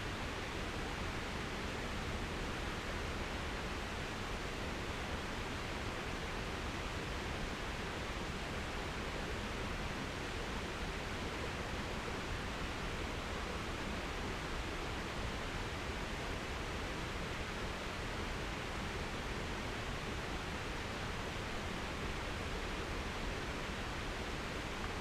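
Steady, even rushing noise with no distinct events, an unchanging outdoor hiss.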